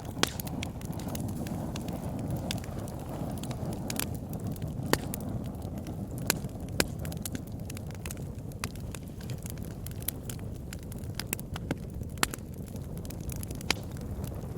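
Campfire burning: a steady low rush of flames with irregular sharp crackles and pops from the burning wood, a few of them louder snaps.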